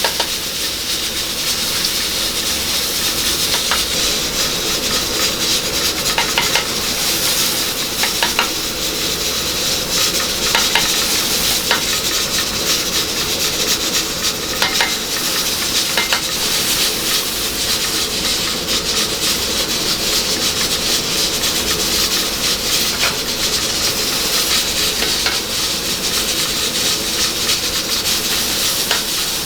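Food sizzling steadily in hot oil, with a few light clinks of metal utensils on the pan.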